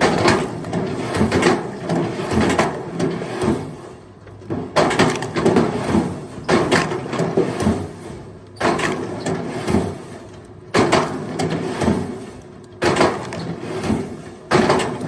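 Split firewood logs knocking and clattering as they are tossed onto a pile, one sudden wooden clatter about every two seconds.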